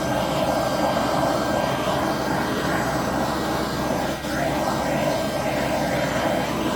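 Handheld hot-air blower running steadily, a constant fan whine over a rushing air noise, as used to push resin into wave shapes.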